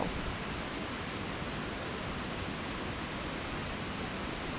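Steady rushing of a large waterfall, an even hiss without breaks.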